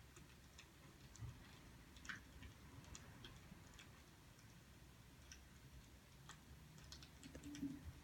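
Faint crackling of a burning wood fire: scattered, irregular small pops and snaps.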